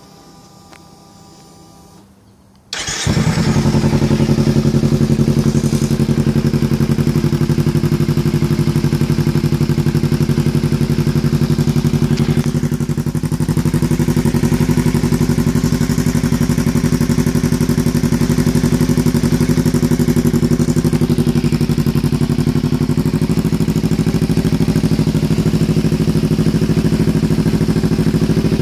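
Kawasaki Ninja 300 parallel-twin motorcycle engine with an aftermarket Coffman exhaust starting up about three seconds in, after a faint steady hum, then idling steadily.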